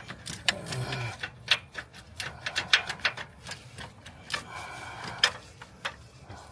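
Hand ratchet clicking in quick, irregular strokes as a bolt is worked loose.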